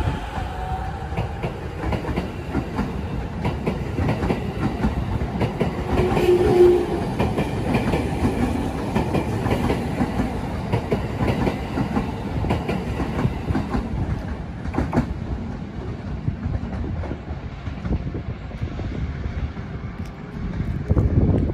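A green-striped JR E231-series electric commuter train pulls out of the platform, its wheels clicking over the rail joints as the cars roll past. A faint motor whine is heard at the start, and the sound thins out about two-thirds of the way through as the last car leaves.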